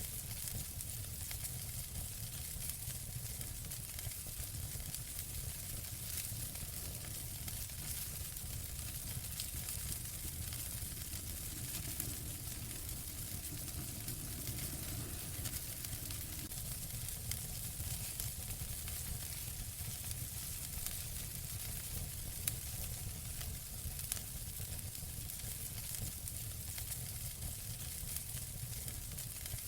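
Wood fire crackling in a fireplace: a steady hiss with scattered sharp pops and a low rumble underneath.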